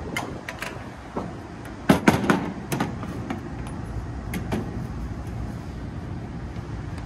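A series of sharp knocks and clicks from tools and parts being handled on an air-conditioning condenser unit, loudest in a cluster about two seconds in, over a steady low rumble.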